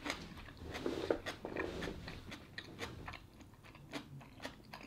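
A person chewing a mouthful of sausage, rice and cucumber close to the microphone: irregular crunching clicks, busier in the first couple of seconds and softer after.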